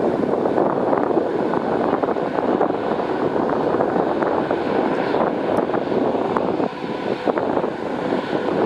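Steady wind noise buffeting the microphone, over the rushing sound of a ferry under way.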